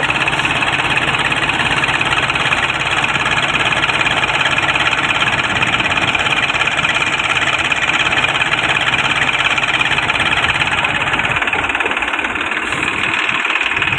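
Tractor diesel engine running steadily and loud, with a dense, even mechanical rattle; its low rumble thins out about three-quarters of the way through.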